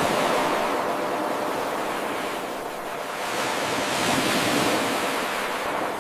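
Ocean surf washing in: a steady hiss of breaking waves that swells, eases about halfway through, swells again and falls back near the end.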